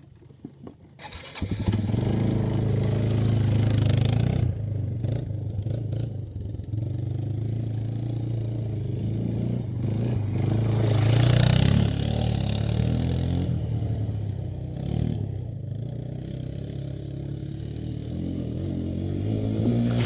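2002 Yamaha Bear Tracker 250 ATV's single-cylinder four-stroke engine, coming in abruptly about a second in and running under way as the quad is ridden around, swelling to its loudest about halfway through as it comes close, then easing off.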